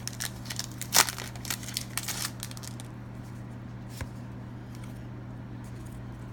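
Foil wrapper of a Pokémon trading card booster pack being torn open and crinkled, with the sharpest tear about a second in. The crinkling dies away after about three seconds, leaving a steady low hum and a single click.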